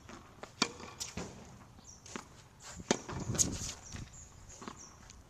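Tennis balls being hit with a racket and bouncing on a hard court: about half a dozen sharp knocks at irregular intervals over a few seconds.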